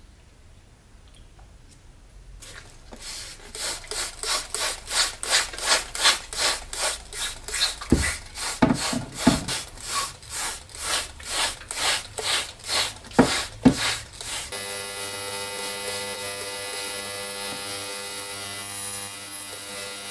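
Rhythmic back-and-forth rubbing strokes, about two and a half a second, for some twelve seconds with a few dull knocks among them, then a steady humming tone to the end.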